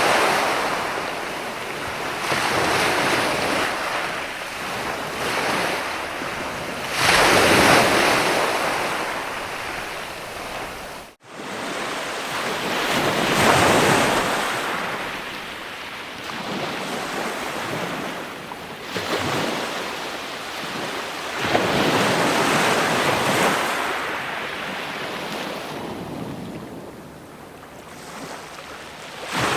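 Ocean surf: waves breaking and washing in slow swells every several seconds. A momentary dropout about eleven seconds in.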